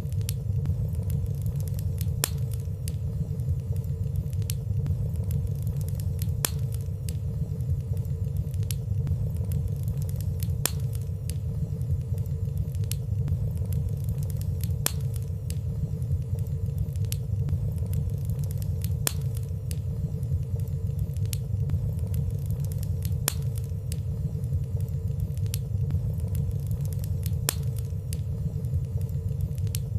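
Wood fire burning steadily in a fireplace: a low, even rumble of flames with small, soft crackles ticking irregularly every second or so and no loud pops.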